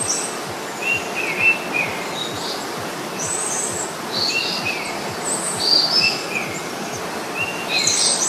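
Birds calling: short stepped chirping phrases, high and repeating every second or two, over a steady hiss of background noise.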